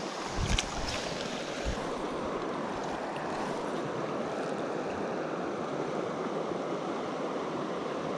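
River water flowing steadily, with a few brief knocks or splashes in the first two seconds.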